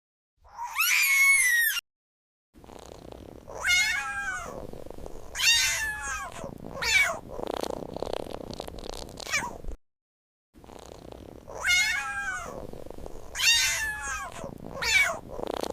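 Cat meowing: one short high meow, then a run of several falling meows over a low hum. After a brief break the run of meows starts again.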